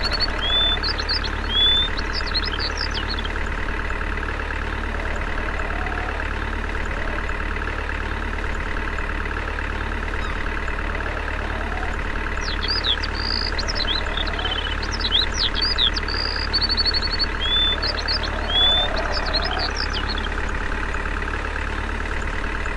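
A motor running steadily with an even hum, while birds chirp high above it near the start and again through the middle.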